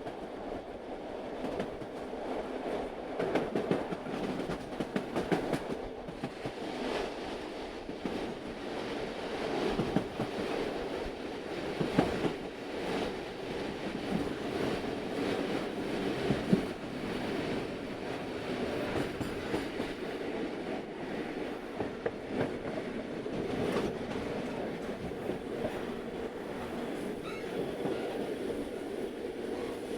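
Small 60 cm narrow-gauge train running along its track: a steady rumble with irregular knocks and clicks from the wheels and cars throughout.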